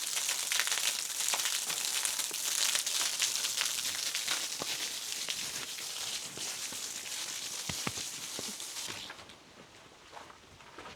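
Waterfall rushing, a steady hiss of falling water with small splashes, which cuts off sharply about nine seconds in.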